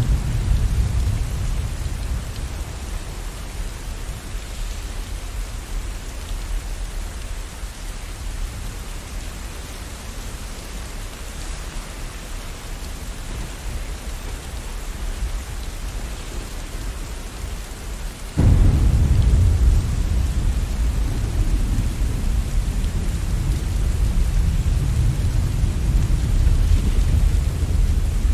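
Steady rain with thunder rumbling low underneath. The rumble dies down, then about two-thirds of the way through a sudden loud thunderclap breaks into a long, heavy rumble.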